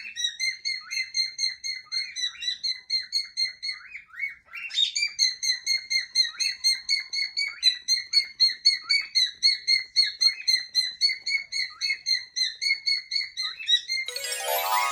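Cockatiel chirping in a steady run of short, repeated calls, about four or five a second, with a brief pause about four seconds in. Near the end a different whistle-like tone comes in over the chirps.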